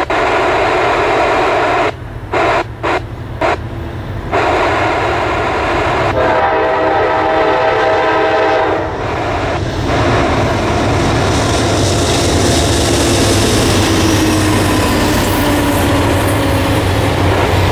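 Diesel locomotive horn sounding several short blasts in the first few seconds, then a longer held chord a few seconds later as the train nears. After that, the locomotives and the long string of circus passenger cars roll past with a steady rushing wheel-and-rail noise and a tone that slides lower.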